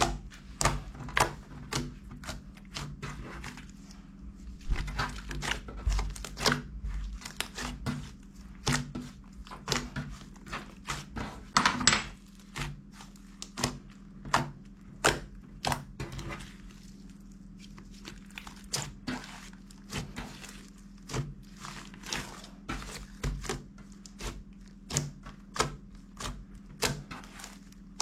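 Irregular sharp knocks and clicks, roughly one or two a second, over a steady low hum.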